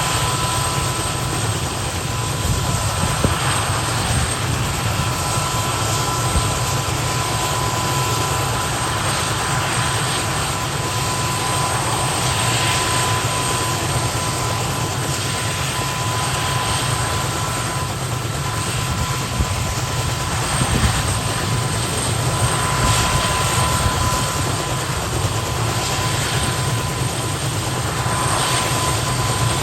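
Kamov Ka-32 helicopter's twin turboshaft engines running during startup: a steady, loud rush with a thin steady whine over it.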